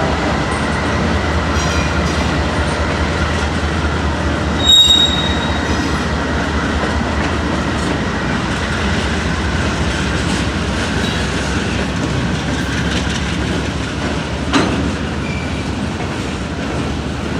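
Freight train rolling slowly over the rails with a steady rumble and a low, even hum. A brief high wheel squeal comes about five seconds in, and a single sharp clank near the end.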